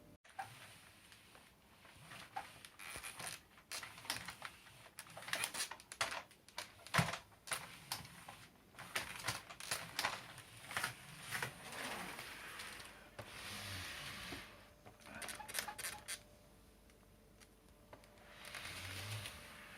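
Irregular clicks, taps and rustling of plastic parts being handled, with a couple of short scraping or rustling stretches near the middle and the end. The vacuum motor is not running.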